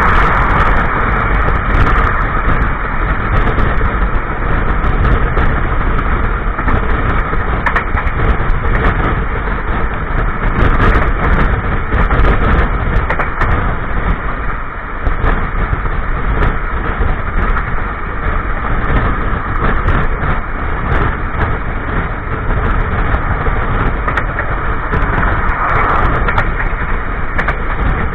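Running noise of a moving passenger train heard from inside a coach's toilet: a loud, steady rumble of wheels on rails with many sharp clicks and knocks scattered through it.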